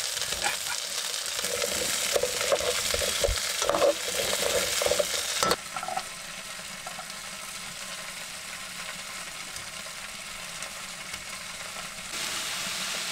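Green beans being stirred in a sizzling pan, with the scrape and knock of the utensil against the pan. After a cut, butter and garlic sizzle steadily and more quietly in a frying pan, the sizzle growing louder near the end as shrimp go in.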